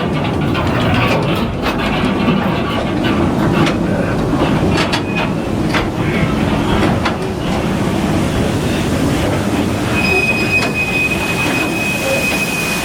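Calico Mine Ride train cars rolling along their track with a steady rumble and scattered clicks. A high, steady wheel squeal starts near the end.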